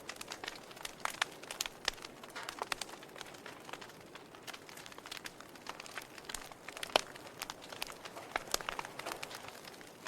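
Wood fire burning in a fireplace: logs crackling with many irregular sharp pops and snaps over a soft hiss, one louder pop about seven seconds in.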